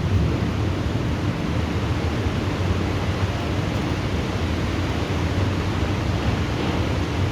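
Thunderstorm: a steady wash of rain noise with a low, continuous rumble underneath and no sharp thunderclaps.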